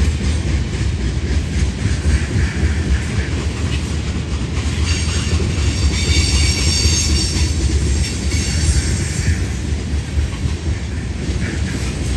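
Long freight train of empty oil tank cars rolling past: a steady low rumble with wheel clatter, and a high-pitched wheel squeal from about five to nine seconds in.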